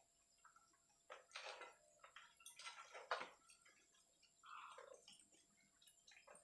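Faint, irregular scrubbing and splashing as an engine crankcase is washed in petrol, with a sharper knock about three seconds in.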